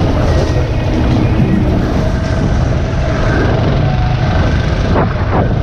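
Single-cylinder four-stroke dirt bike engine running steadily on a trail ride, with two short knocks near the end.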